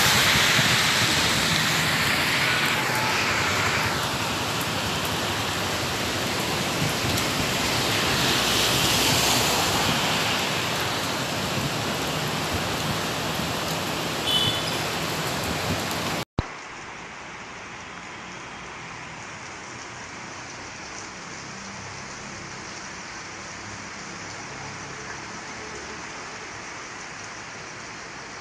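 Heavy rain falling on a waterlogged street, a steady loud hiss. About sixteen seconds in it cuts abruptly to a quieter, duller rain hiss.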